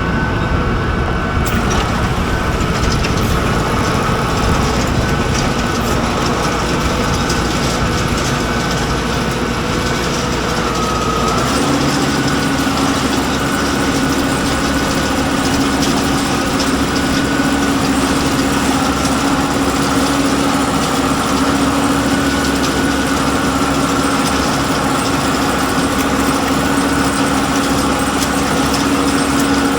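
Tractor engine running steadily while pulling a KMC Kelly poultry litter cruster through the house, with a steady high whine from the machinery. About a third of the way in the engine note shifts and a strong steady hum sets in.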